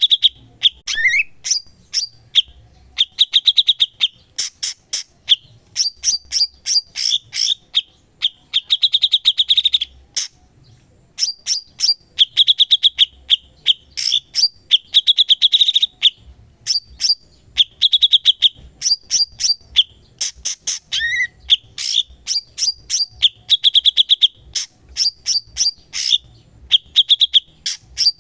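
Cucak cungkok in full, vigorous song: phrase after phrase of rapid, sharp, high chattering notes and buzzy trills, broken by short pauses.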